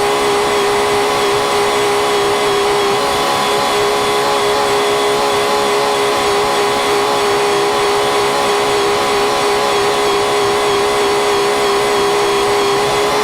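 Farm machinery running at a constant speed: a steady engine drone with a fixed whine, with no revving or change in pitch.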